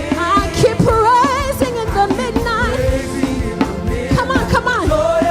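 Live gospel worship band playing with drums, while singers hold and bend vocal runs with vibrato between lines of the song.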